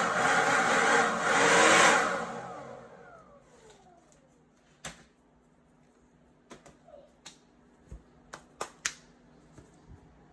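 An electric motor of a duct-cleaning tool running loudly, then switched off about two seconds in, its whine falling in pitch as it spins down. A scatter of light clicks and knocks follows.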